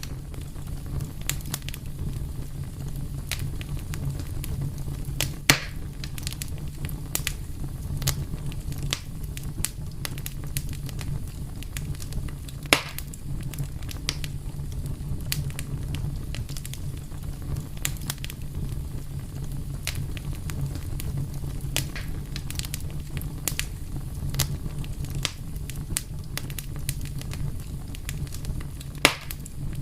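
Wood fire burning with a steady low rumble and scattered sharp crackles and pops, a few of them louder snaps.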